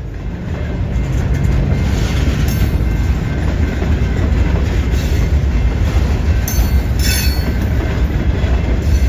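Keokuk Junction Railway freight train passing close by: the steady drone of the diesel locomotive in the first couple of seconds, then a loud, steady rumble and clatter of wheels on the rails, with brief high-pitched squeals near the end.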